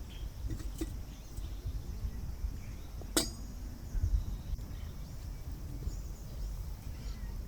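Outdoor ambience with a steady low rumble, a sharp click about three seconds in, and faint high chirps.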